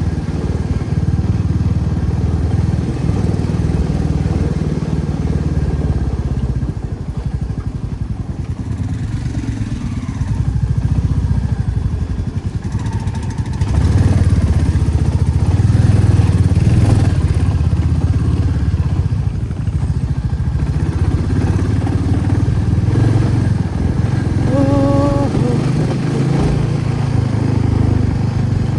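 Motorcycle running steadily while riding, a continuous low rumble. A short horn beep sounds about three quarters of the way through.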